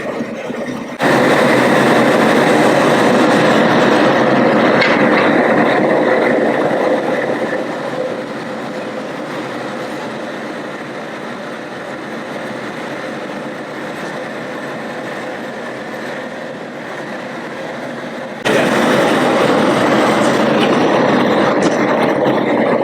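High-pressure propane burner under a crawfish boil pot, burning with a steady roar as the pot is brought back to a rolling boil. It gets suddenly louder about a second in, eases off a little midway, and jumps back up near the end.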